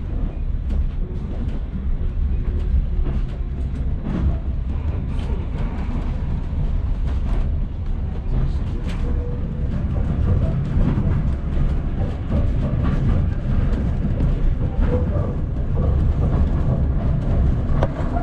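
Railway train running along the track: a steady low rumble with scattered clicks from the wheels and rails.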